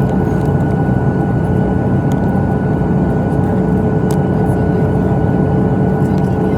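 Airliner cabin noise in flight: the steady rush of engines and air flow, with a faint steady tone running through it.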